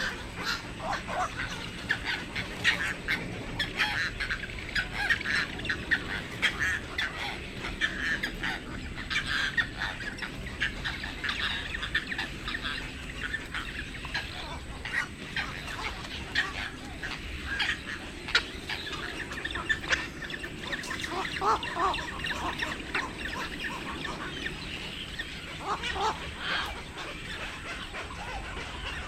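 A flock of birds calling over one another: many short calls packed close together and overlapping, keeping up without a break.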